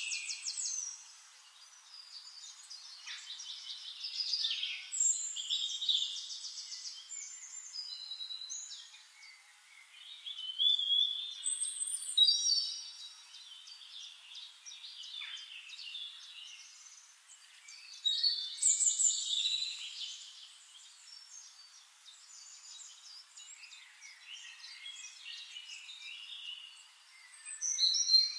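Several birds singing: a changing mix of whistled phrases, quick trills and rising and falling chirps that come in bursts with short lulls between them.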